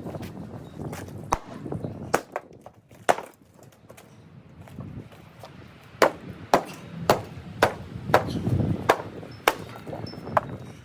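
Sharp blows striking wood as a wooden dog house is broken apart: a few scattered strikes, then a quick run of about two blows a second in the second half.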